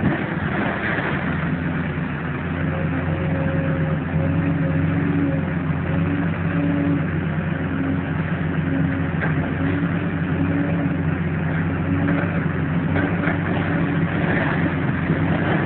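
Demolition machinery's engine running steadily, with scattered clattering over it.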